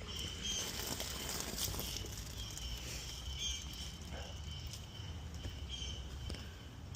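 Outdoor ambience: short, high chirps repeating about once or twice a second over a low, steady rumble.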